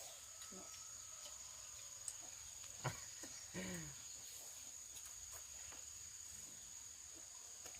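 Insects chirring steadily in one high, even tone. A sharp knock comes about three seconds in, and a short falling vocal sound follows just after.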